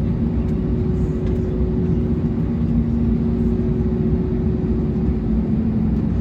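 Steady cabin noise inside an Airbus A321neo: a constant low rumble with an even, unchanging hum.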